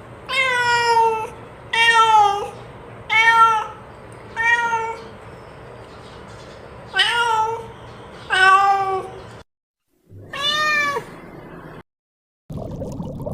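Domestic cat meowing seven times, each meow drawn out and falling in pitch at the end, with longer pauses between some of the calls. Near the end a steady rushing hiss begins.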